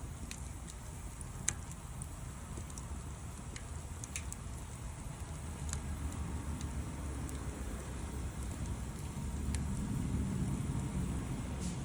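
Wood fire crackling, with sparse sharp pops over a steady low rumble that swells slightly in the second half.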